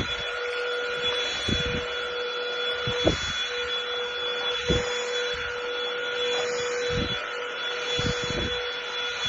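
Russell Taylors V5 cordless vacuum cleaner running, a steady loud hiss of rushing air over a constant motor whine, with scattered low knocks.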